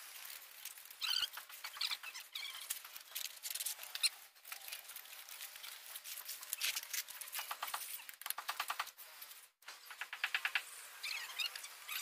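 Small birds chirping and calling in short, high notes, with a quick rattling trill about seven seconds in.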